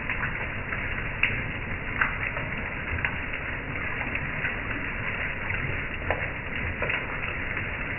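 Heavy rain falling on a wet wooden deck: a steady hiss with scattered sharper ticks of single drops hitting.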